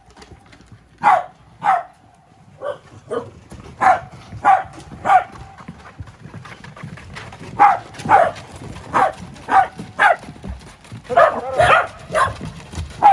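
Welsh corgis barking: short sharp barks in irregular runs, bunching together near the end.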